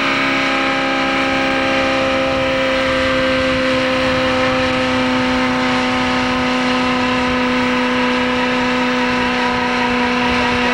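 Chevrolet small-block 350 V8 held at high, fairly steady revs during a burnout, rear tires spinning on the pad. The tires are hard and make little smoke.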